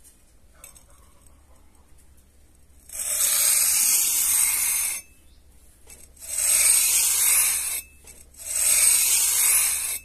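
Small metal trowel scraped across fine sand in three long strokes of one to two seconds each, the first starting about three seconds in.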